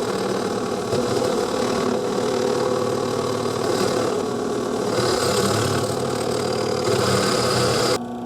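Electric drill with a 5/8-inch bit cutting into steel angle iron, a steady grinding noise with the motor running under load; the bit is one the user thinks is dull. The cutting stops suddenly near the end, leaving the motor humming freely.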